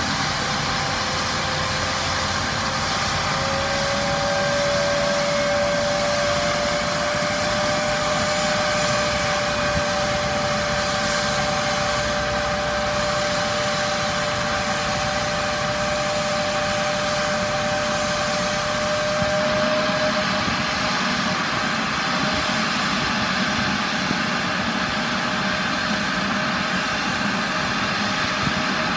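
Embraer ERJ170's jet engine spooling up during start-up: a steady whine that rises in pitch a few seconds in and then holds, over a constant rushing noise.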